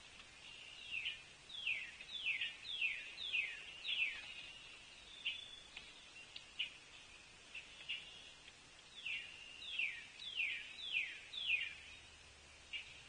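A songbird singing two phrases, each a run of five or six falling whistled notes, with short single call notes in between.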